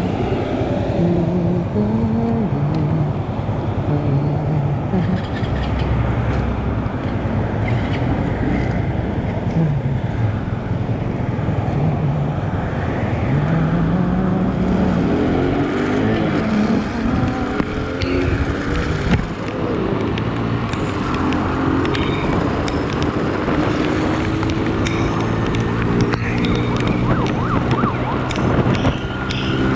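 Motorcycle engine running on the move, its pitch rising as it accelerates and dropping back several times with the throttle and gear changes, over steady wind and road noise.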